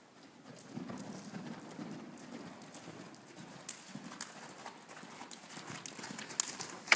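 A horse's hooves striking the ground in a running rhythm of low thuds and clicks, with one sharp, loud knock near the end.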